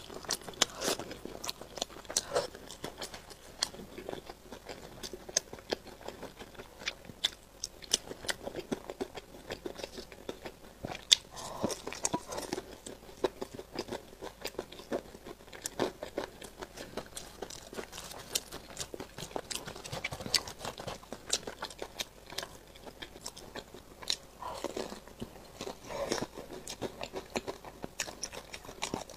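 A person biting and chewing crispy sauce-covered fried chicken, with many small crunches and crackles throughout.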